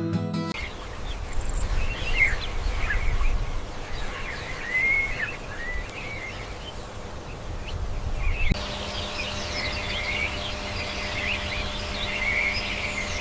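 Natural ambience of birds chirping and calling in short, scattered phrases over a low rumble. About eight seconds in it changes to a denser, continuous chorus of chirping birds with a faint steady hum beneath.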